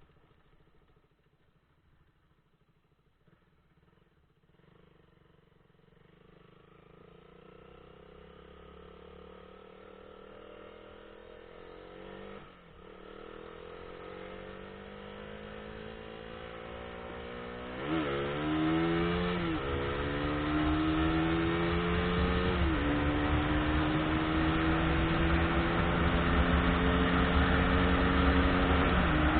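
Car engine pulling away and accelerating through the gears. It is faint at first, then grows steadily louder, its pitch climbing and dropping at each of several upshifts, with road noise building underneath.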